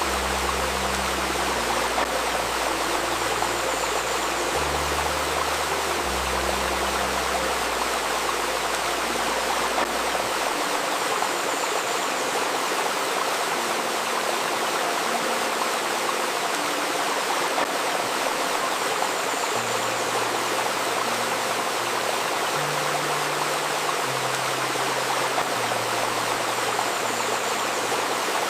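A babbling river runs steadily. Under it, soft sustained low tones shift pitch every second or two; they fade out about ten seconds in and return near the twenty-second mark.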